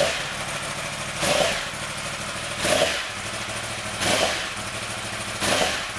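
R-1 engine running at idle while warming up, steady underneath, with a short swell in sound about every second and a half, five times, evenly spaced.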